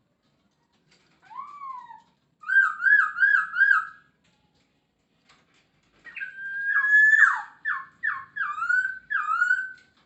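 Chinese hwamei (poksay Hongkong) singing loud, clear whistled phrases. A single slurred note comes first, then a quick run of about five rising notes. After a pause it gives a long held whistle followed by four falling notes.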